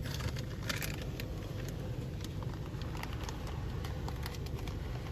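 Automatic car wash heard from inside the car: water spray and soapy foam patter and crackle against the car's body and windows in irregular ticks, over a steady low rumble.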